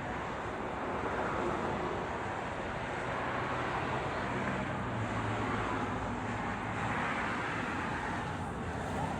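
Train passing, a steady noise with a low hum that swells in the middle and eases off again.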